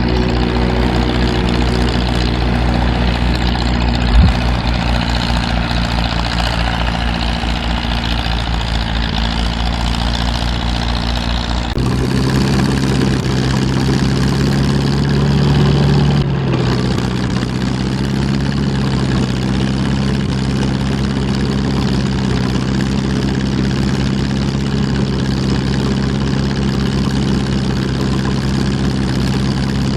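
International 350 Utility tractor engine running steadily. About twelve seconds in, the note changes abruptly to a different steady pitch.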